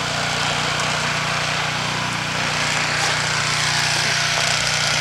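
Snowblower's small engine running steadily: a constant low hum under an even hiss.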